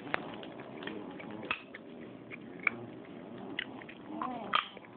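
A child's brief pitched vocal noise about four seconds in, over faint hiss and a few small clicks.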